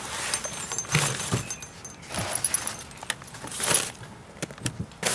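Gear being handled in a bass boat's aluminium storage compartment: fabric and packaging rustling, with light metallic jingling and a few sharp clicks as items and the lid are moved.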